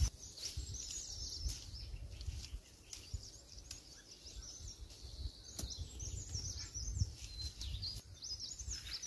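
Small songbirds chirping and twittering throughout, over a low rumble, with a few sharp clicks.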